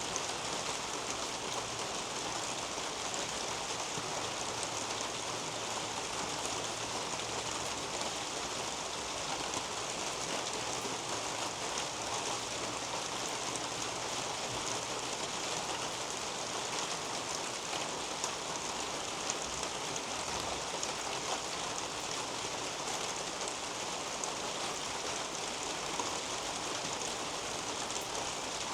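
Steady rain falling on garden leaves and a roof overhead: an even hiss with scattered single drops.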